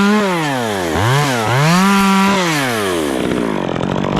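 Stihl two-stroke chainsaw running at full throttle, then dropping toward idle. It gives a short blip of throttle about a second in and revs up again for about a second before falling back to a low idle.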